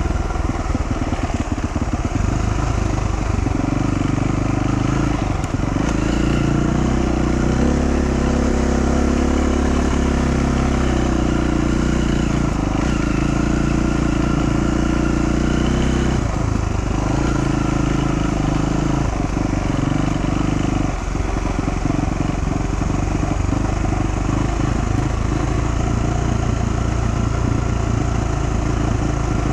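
Dual-sport motorcycle engine running under varying throttle off-road, revs rising and falling. The pitch climbs and holds for several seconds, drops about halfway through, and dips briefly twice more afterwards.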